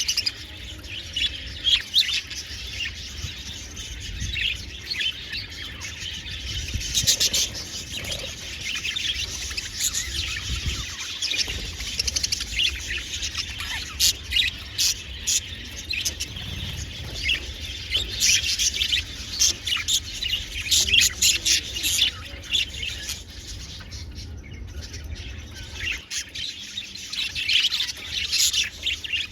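A flock of budgerigars chattering: many short chirps and warbles overlapping without a break.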